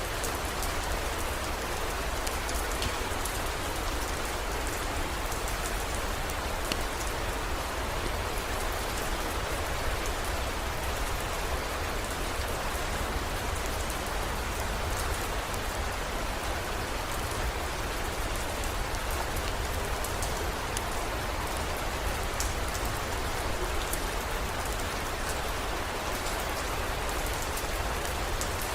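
Steady rain, an even hiss dotted with fine drop ticks, over a constant low rumble.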